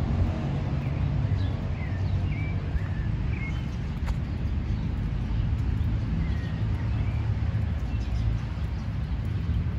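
Scattered short bird chirps over a steady low rumble, with a single sharp click about four seconds in.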